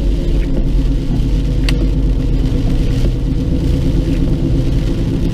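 Car engine and road noise heard from inside the cabin while driving, a steady low hum, with a few sharp clicks, one clear one a little under two seconds in.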